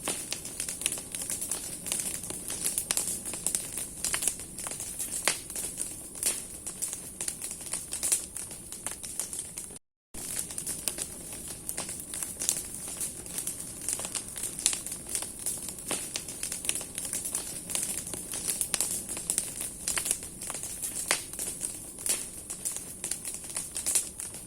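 Large bonfire of burning branches: dense, irregular crackling and popping of the wood over a steady high hiss. The sound drops out for a split second about ten seconds in.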